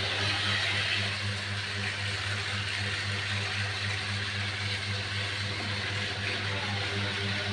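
Small electric motor of a battery-powered City Truck toy vehicle whirring steadily as it runs along its track, with a constant low hum under it.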